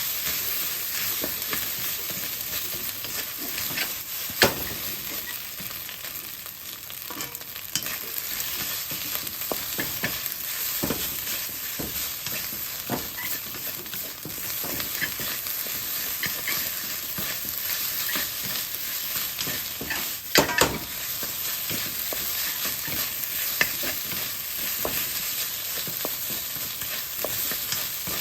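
Fried rice sizzling in a hot pan while being stirred and tossed with a spatula, a steady high hiss broken by scraping clicks. Two loud knocks of the spatula on the pan, about four seconds in and about twenty seconds in.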